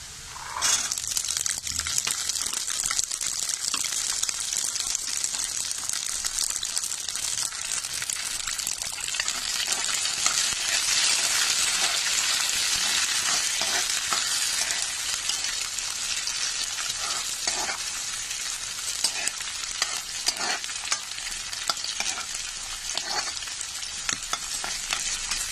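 Green peas tipped into hot oil in a kadhai with onion and garlic, bursting into a loud sizzle about half a second in and then frying steadily. A metal spoon stirs them, scraping and knocking against the pan now and then in the second half.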